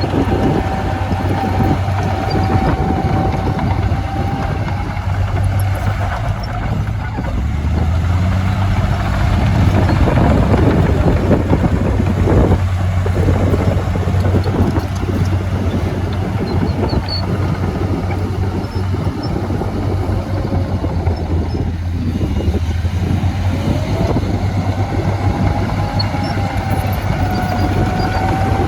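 Heavy diesel earthmoving machinery running steadily under a constant clatter. A whine rises and falls near the start and again near the end.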